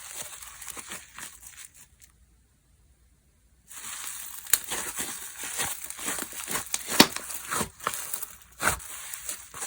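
Slime being squeezed and stretched by hand, with dense crinkly crackles and sharp pops. The sound cuts out completely for about a second and a half near two seconds in, then comes back busier, with a loud pop about seven seconds in.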